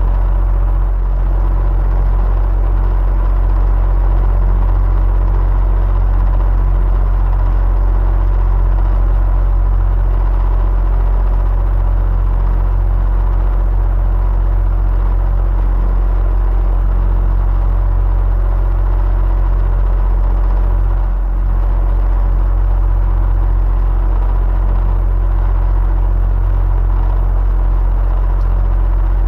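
Electric fan running steadily: a deep, even rumble with faint steady hum tones above it.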